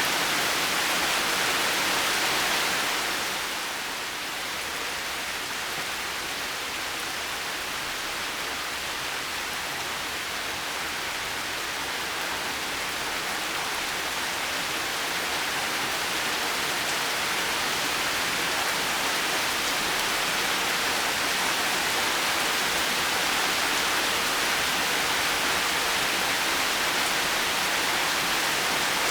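Heavy rain falling steadily. It eases slightly about three seconds in, then slowly builds back up.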